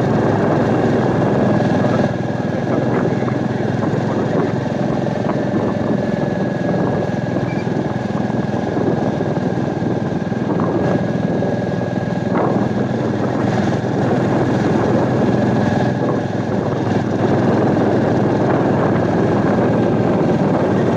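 Royal Enfield Meteor 350's single-cylinder engine running steadily at cruising speed, with wind and road noise from the moving motorcycle.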